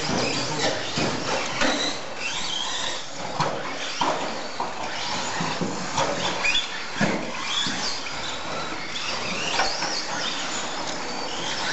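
Radio-controlled stadium trucks racing on a dirt track: their motors whine up and down in short bursts over a steady noise of tyres on dirt, with scattered knocks from landings and bumps.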